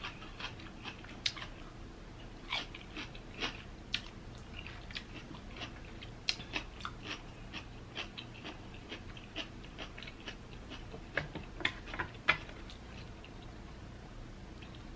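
Close-miked eating of saucy rotisserie chicken: wet chewing, biting and scattered mouth clicks and smacks, with a few louder ones about eleven to twelve seconds in.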